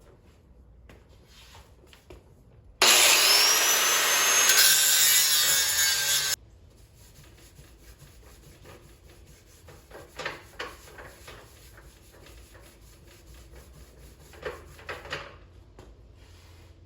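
Power grinder spinning up with a rising whine and grinding down a weld bead on the truck's sheet metal for about three and a half seconds, then cutting off abruptly. Quieter scraping and rubbing follow, a little louder twice in the second half.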